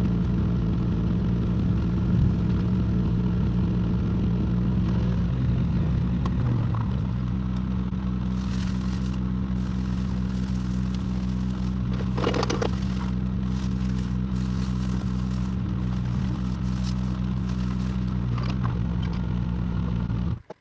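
Excavator engine running steadily, its note shifting and settling about a third of the way through, with short bursts of scraping and clattering from the machine's work. The sound cuts off abruptly just before the end.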